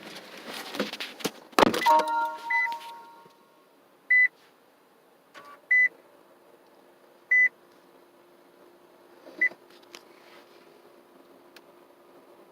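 A thud, then a short ringing chime, then four single short high beeps spaced one to two seconds apart, like button presses on the 2016 Nissan Leaf SL's dashboard screen as the charging status is called up; a faint steady hum sits underneath.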